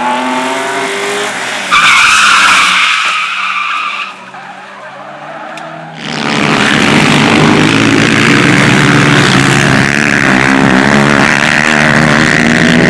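Car engine revving, then a loud tyre screech lasting about two seconds, starting a couple of seconds in. From about six seconds in the engine runs hard under heavy tyre and road noise.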